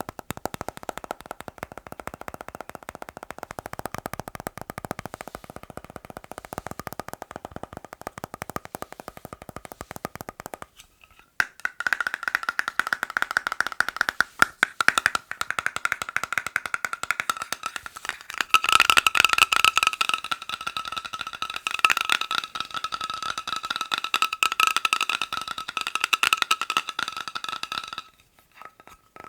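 Fast tapping on hard objects, a dense patter of many taps a second. After a short pause about eleven seconds in, the tapping turns louder and rings with a steady pitch, and a higher ring joins in about halfway through; it stops briefly near the end.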